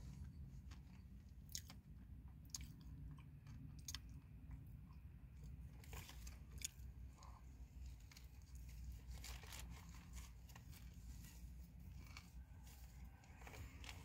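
A person chewing and crunching a homemade taco: faint, irregular crunches and mouth clicks.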